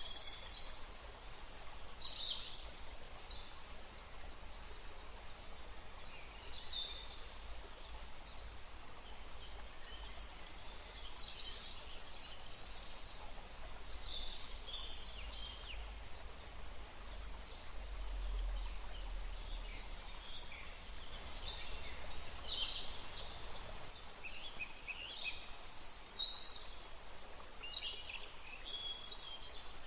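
Wild birds chirping and trilling in many short, high calls, some overlapping, over a steady background hiss of wind and water. A low rumble swells briefly just past the middle.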